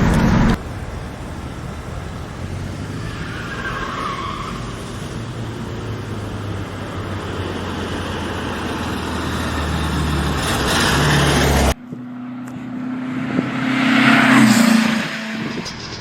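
Motor vehicle engine noise that slowly grows louder and then cuts off abruptly about twelve seconds in. A different engine hum follows, with a vehicle passing by, loudest near the end.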